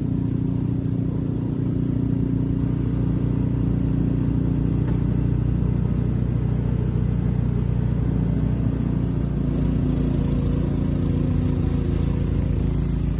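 An engine running steadily, its tone shifting slightly about ten seconds in.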